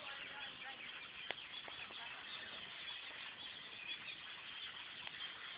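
A flock of small birds nesting in a tree, chirping and chattering together in a dense, continuous twitter. There is one sharp click about a second in.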